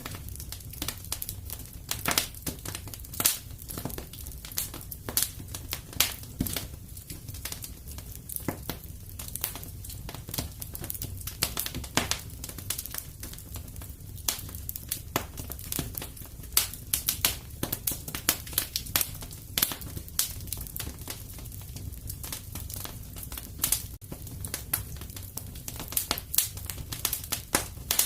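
Wood fire crackling in a fireplace: irregular sharp pops and snaps, several a second, over a steady low rumble from the flames.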